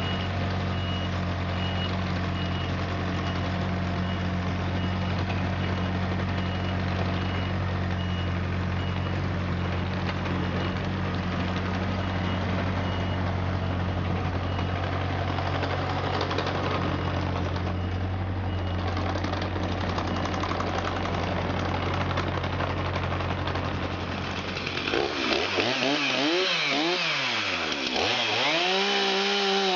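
John Deere 35ZTS mini excavator's diesel engine running steadily, its travel alarm beeping repeatedly over the first half. About 25 seconds in the drone stops, and another engine starts, its pitch swinging up and down as it revs before settling.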